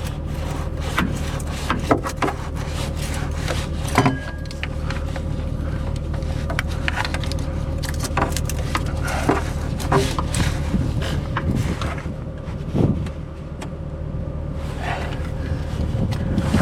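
An engine running steadily at idle, with scattered sharp metal clinks and knocks over it.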